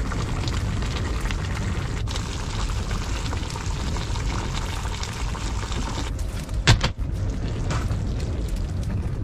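Fish pieces cooking in liquid in a pan, bubbling with a steady hiss, with a single sharp knock about two-thirds of the way through.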